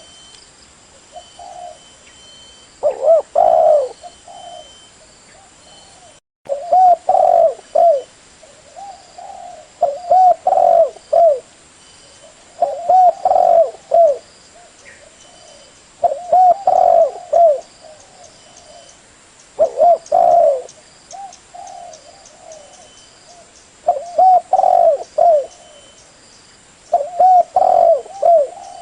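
Spotted dove cooing, phrase after phrase of several coos, one phrase every three to four seconds.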